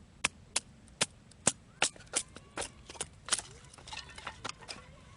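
Thin dry wood snapping and splitting by hand into kindling: a run of about nine sharp cracks, two or three a second, then a softer splintering crackle near the end.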